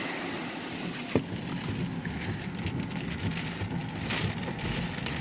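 Heavy rain falling on a car's roof and windshield, heard from inside the cabin, with a low rumble underneath and a single sharp knock about a second in.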